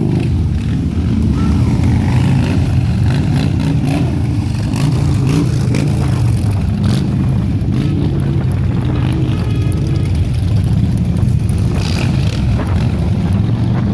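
Harley-Davidson motorcycles' V-twin engines running in a steady, loud low rumble, several bikes together, with slight shifts in pitch as they ride by.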